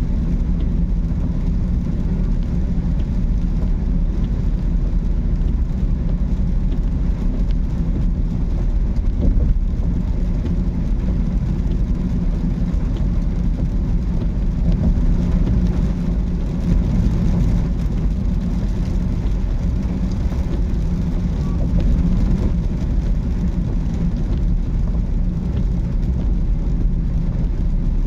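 Car driving, a steady low rumble of engine and road noise with no distinct events.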